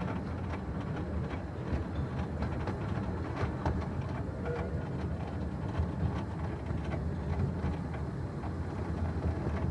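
A 15-inch-gauge miniature railway carriage running along the track: a steady rumble of wheels on rail, with frequent clicks and rattles.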